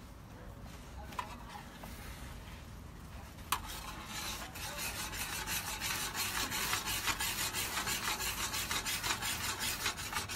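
Metal spatula scraping and chopping repeatedly on the Matador gas cooker's hot cooking surface, with food sizzling. After a sharp click, fast, even scraping strokes start about four seconds in and get louder.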